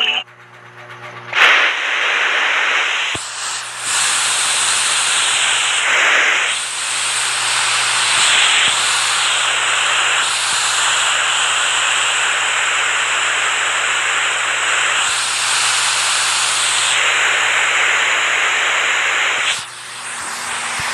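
Steady rushing water noise, an even hiss that starts abruptly about a second and a half in and drops away shortly before the end.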